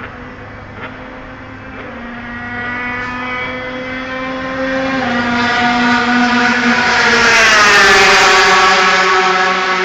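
Moto3 race bike's single-cylinder four-stroke engine at high revs, growing louder as it approaches, then passing with a falling pitch near the end.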